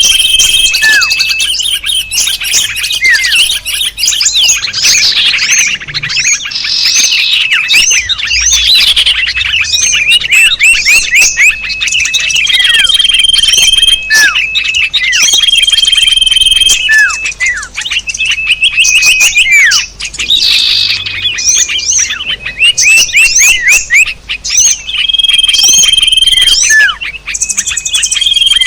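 Small songbirds calling densely together: rapid chirps and twitters, short repeated whistled notes and downward-sweeping calls recurring every couple of seconds. This is a bird-luring call recording that mixes the calls of many small bird species.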